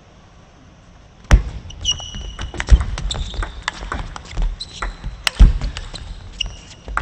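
Table tennis rally starting about a second in: the ball clicking off rackets and table in quick succession, with players' shoes squeaking on the court floor.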